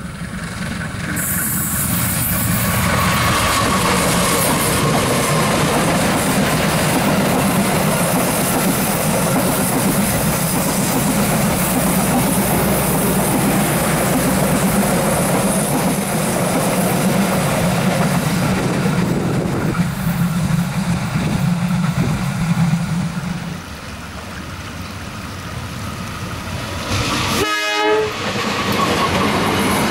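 Diesel-hauled passenger train passing close by: a steady loud rumble and clatter of locomotive and coaches on the rails. A short horn toot near the end.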